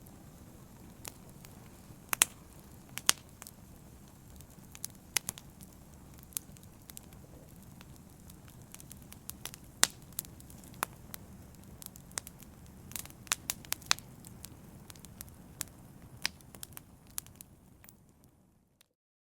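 Wood fire crackling: irregular sharp pops over a low steady rush of the flames. It fades out and stops near the end.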